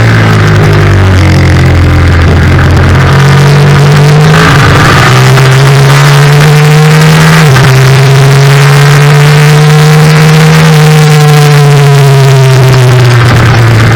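Yamaha FZ-07 race bike's parallel-twin engine under hard riding, heard onboard over wind noise. The engine note falls, jumps at gear changes about four and a half and seven and a half seconds in, climbs slowly, then falls away again near the end as the rider brakes.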